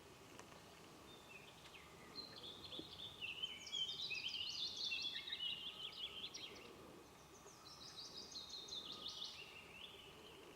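A songbird singing: two long phrases of rapid high chirps and trills, the first starting about two seconds in and the second following shortly after it.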